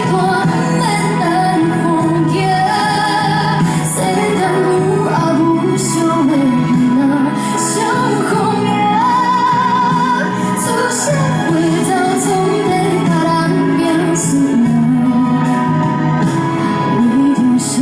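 A woman singing a Hokkien pop ballad over band accompaniment, her melody running continuously through.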